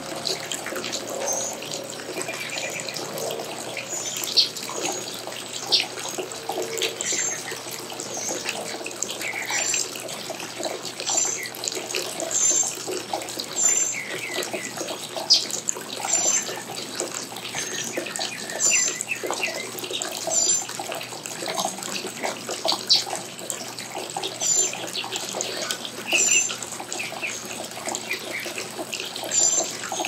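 Small birds chirping: many short, high chirps at irregular intervals over a steady rushing noise.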